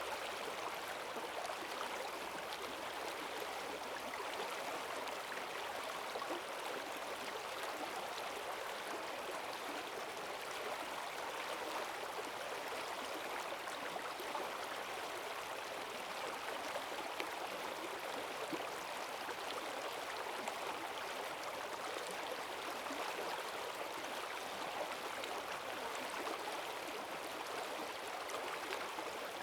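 Forest stream running high after heavy rain: a steady rush of fast water over the streambed.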